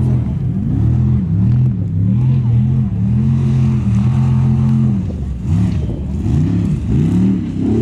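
Formula offroad truck engine revving hard, its pitch repeatedly climbing and dropping with the throttle, held high for a couple of seconds in the middle, then several quick revs near the end.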